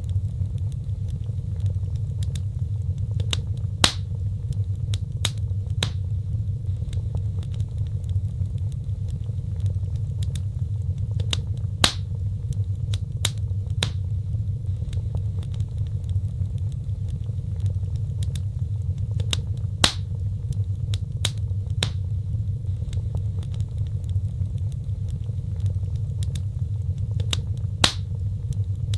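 Wood fire crackling: sharp pops and snaps scattered over a steady low rumble of burning, with the loudest pops coming about every eight seconds.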